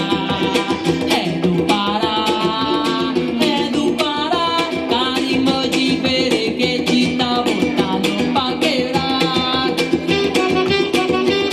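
A band playing carimbó music: plucked and strummed strings over a quick, steady drum beat, with a gliding melody line on top.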